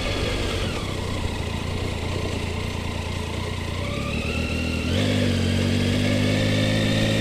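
Motorcycle engine running while riding, with the pitch of its note falling in the first second and rising again around three to four seconds in. About five seconds in the engine note jumps up and gets louder, then holds steady.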